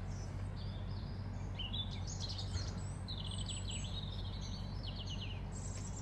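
A small songbird singing a run of quick high chirps and trills from about two seconds in until near the end, over a steady low background hum.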